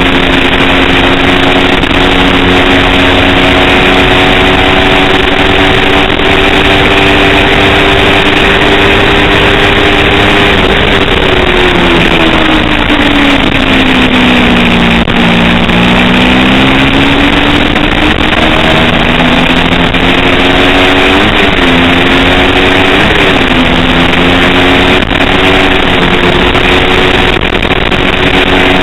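A 250cc racing motorcycle engine running hard and steady at high revs. The revs fall away about 11 seconds in, bottom out near 15 seconds, and climb back, with two quick flicks in pitch a few seconds later.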